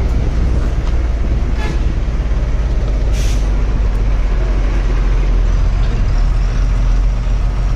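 Loaded Tata truck's diesel engine running with a steady low rumble. About three seconds in there is a brief hiss of released air.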